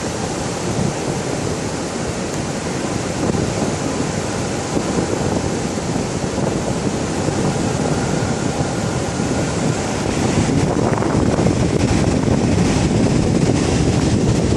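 Ocean surf washing up on a beach, with wind rumbling on the microphone; a little louder in the last few seconds.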